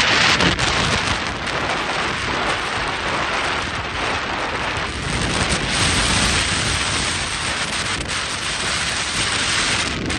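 Loud wind buffeting the microphone over rushing, splashing water and waves.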